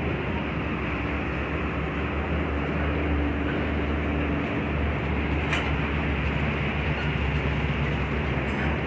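New Holland tractor's diesel engine running steadily at a constant speed.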